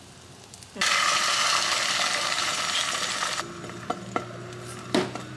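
Food sizzling in a hot frying pan: the sizzle starts suddenly about a second in, loud for a couple of seconds, then dies down to a quieter level with a low hum and a few light clicks near the end.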